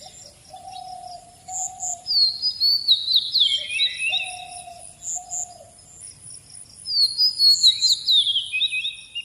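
Songbirds singing: two loud cascading song phrases, each sliding down in pitch over about two seconds, one a couple of seconds in and one near the end. Beneath them a lower, drawn-out note sounds twice early on, with faint high chirps in between.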